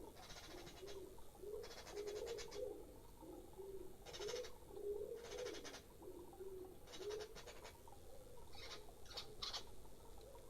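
Pigeons cooing in repeated low phrases, with short, rapid high chattering bursts from other birds breaking in about every second or two.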